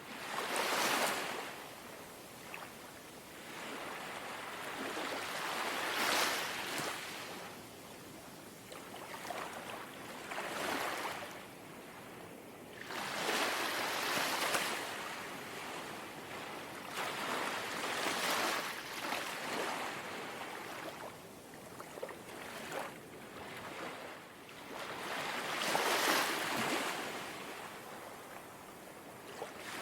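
Gentle sea waves lapping and washing on the shore, each small wave rising and falling away every few seconds.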